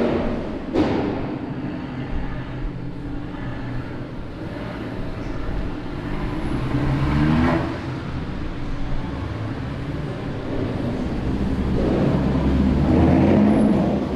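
Car engines revving and driving past, their pitch rising and falling, with a sharp crack about a second in.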